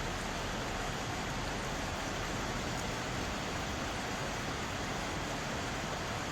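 Mountain stream water flowing and splashing over rocks, a steady, even rush.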